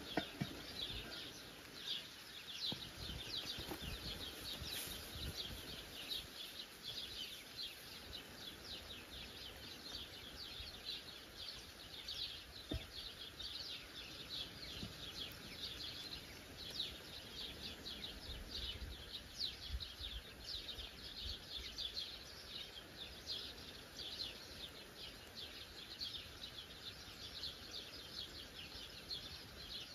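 A dense chorus of many small birds chirping continuously and overlapping, with a few low knocks and rumbles underneath.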